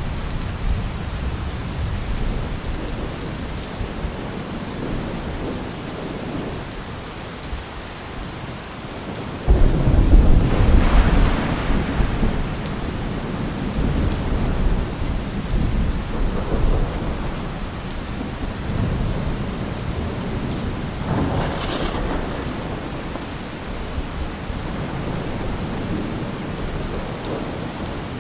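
Steady rain with low rumbling thunder. About a third of the way in, a sudden loud thunderclap breaks into a long rolling rumble. A second, weaker crack of thunder comes past two-thirds of the way through.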